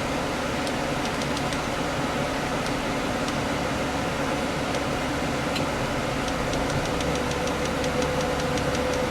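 1996 Toyota Kijang's 1.8-litre 7K inline-four gasoline engine idling steadily, with a fast light ticking in the second half.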